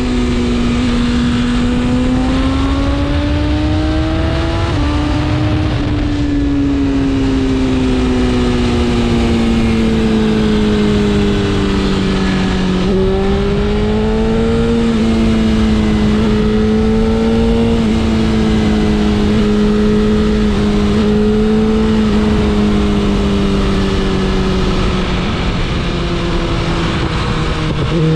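BMW S1000RR inline-four engine running under way, its pitch climbing, then easing off slowly and stepping back up about halfway through as the throttle changes. A steady low rumble of wind and road noise sits underneath.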